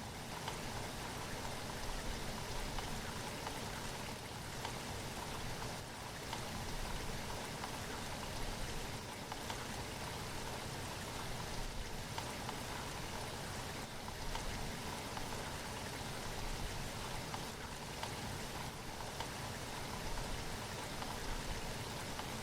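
Steady rain, a dense even patter of drops.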